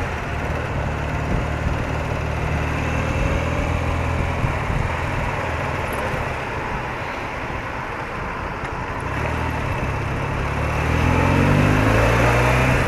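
BMW R80RT's air-cooled flat-twin engine running under way, with steady wind and road rush. The engine note rises near the end.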